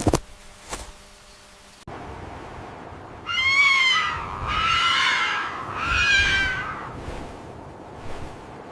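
An animal calling three times, each call about a second long and wavering in pitch, after a few sharp clicks near the start.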